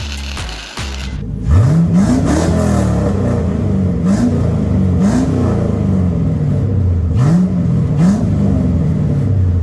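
GM 5.3-litre V8 with a custom modified exhaust, idling and revved repeatedly. One big rev comes about a second and a half in, then about five shorter blips, each rising and falling back to idle.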